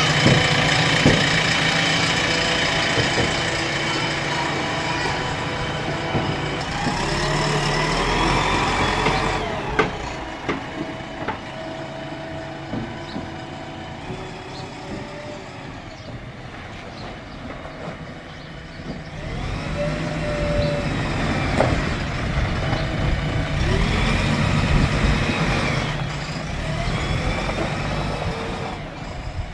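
Heavy vehicle's diesel engine running, its pitch rising and falling several times as it is revved, louder for the first third and again in the last third.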